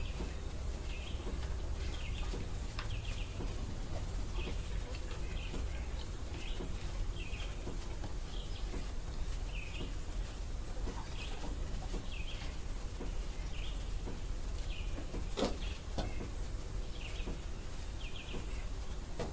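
A small bird chirping over and over, short high chirps about once a second, some in quick pairs, over a steady low hum. A single knock about three-quarters of the way through.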